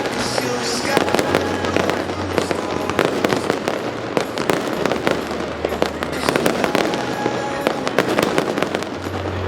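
Fireworks going off in rapid, continuous succession: many sharp bangs and crackles, with music playing underneath.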